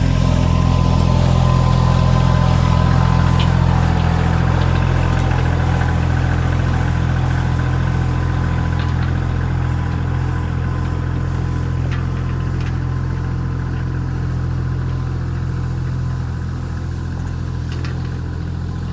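Kioti CK2610 compact tractor's diesel engine running steadily under load while pulling a log, easing off slightly after about four seconds.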